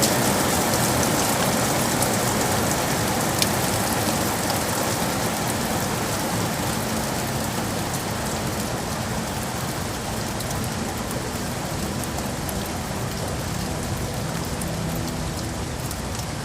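Steady rain falling, with scattered sharp drop clicks, easing slightly in loudness.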